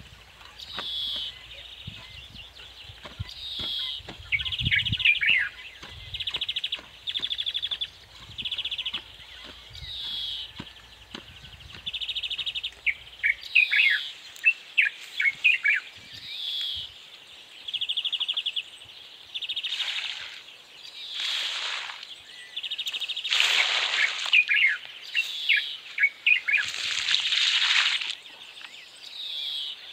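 Birds singing: a short, buzzy high note repeated about once a second, with quicker chirps between. In the first half there are dull low knocks from a hoe working dry soil, and in the second half a few louder bursts of hiss.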